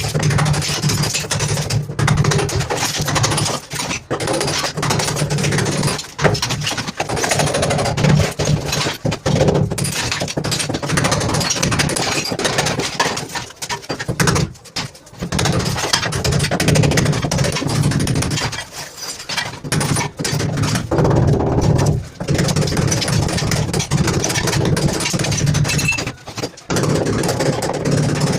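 A motorised power tool running loudly with a steady hum, cutting out briefly several times and starting again.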